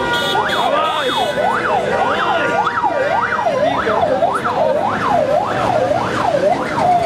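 Vehicle siren in a fast yelp, sweeping up and down about twice a second. Near the end it drops into a long falling wail as it winds down. It is a car using a siren to force its way through stalled traffic.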